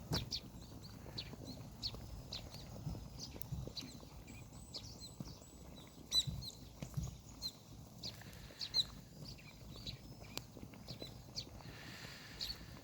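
Campfire of dried kudzu roots and black nightshade stalks crackling, with irregular sharp pops and snaps.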